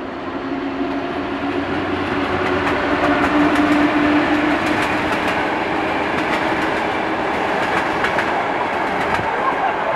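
A passenger train hauled by an EU07 electric locomotive passing close by. A steady hum swells as the locomotive goes past, loudest about three to four seconds in, then fades. After that the coaches roll by with a steady rumble and quick clicks of wheels over the rail joints.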